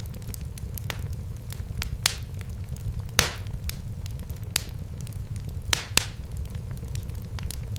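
Wood fire burning in a fireplace: a steady low rumble of flames with irregular sharp crackles and pops, the loudest a little past three seconds in and at about six seconds.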